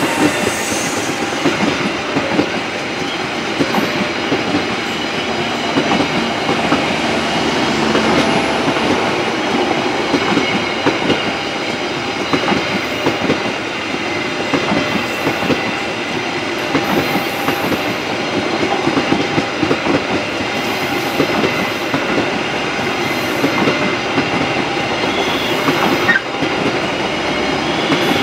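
Coaches of a KAI passenger train passing close by, their wheels clacking over the rail joints in a dense, steady run of clicks over a continuous rumble.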